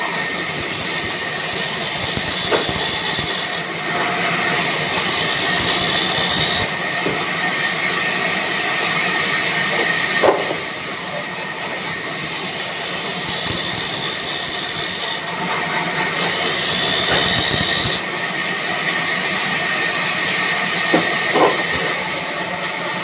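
Sawmill band saw machine running, a steady mechanical din with a high whine, rising twice into longer stretches of louder high hiss.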